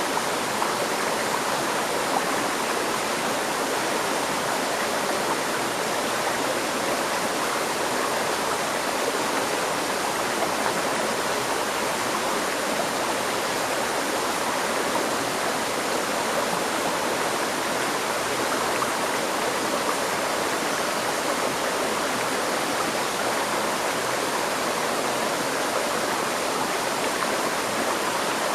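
A river stream flowing and rushing steadily over rocks, an even wash of water noise with no changes.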